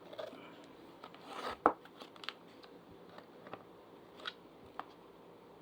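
Plastic fan parts being handled and fitted together: a short rustle ending in one sharp click about a second and a half in, then a few lighter clicks and taps.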